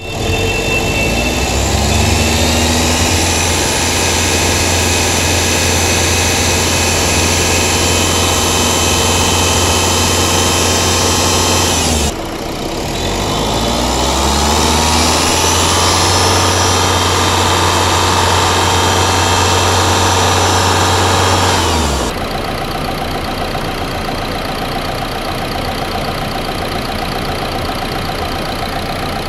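Renault Duster engine revved and held at raised speed for about ten seconds, dropping back briefly about 12 s in, revved and held again, then falling back to a steady idle about 22 s in.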